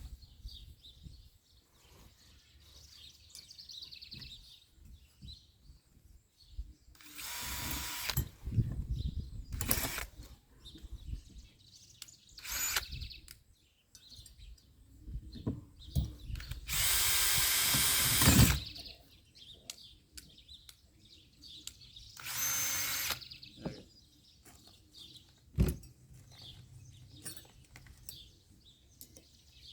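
Power drill with a 1/4-inch bit, run in five short bursts; the longest and loudest lasts nearly two seconds, about seventeen seconds in. Faint birds chirp in the gaps.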